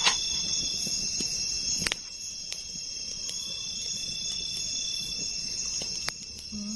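Chorus of night insects (crickets) shrilling steadily at a high pitch, with a few sharp clicks along the way.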